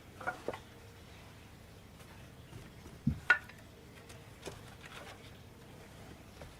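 Pieces of firewood being handled: a few light wooden knocks and clicks, with a dull thump and then a sharp clack a little after three seconds in.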